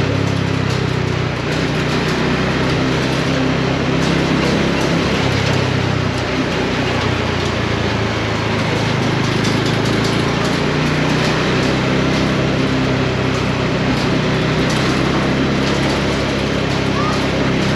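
Bajaj Dominar 400's single-cylinder engine running under way, its pitch rising and falling as the revs change, over a steady rush of wind and road noise.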